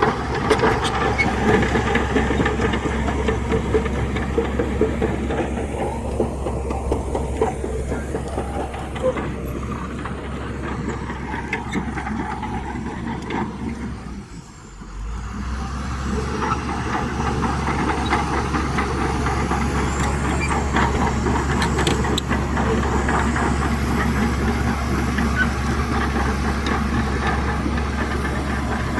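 Heavy diesel engine of earthmoving machinery running steadily. Near the middle the sound drops away for about a second, then comes back.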